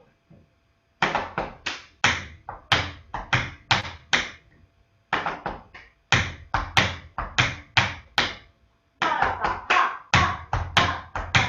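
Tap shoes striking a hard floor, dancing a tap break step in quick runs of sharp taps. The runs come in several short phrases with brief pauses between them.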